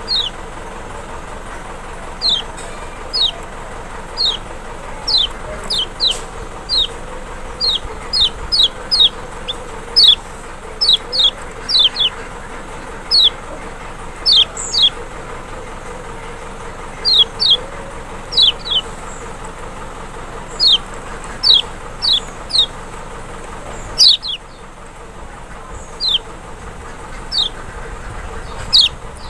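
Lombok white-eye (kecial, Zosterops chloris maxi) giving short, sharp, high call notes that drop in pitch, roughly one a second and sometimes in quick pairs, over a steady background hiss.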